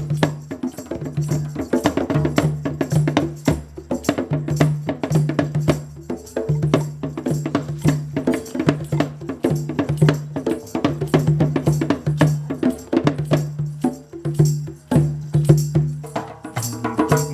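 Live acoustic group music: a dense run of quick, sharp hand-percussion strikes over a low note played again and again in short held bursts.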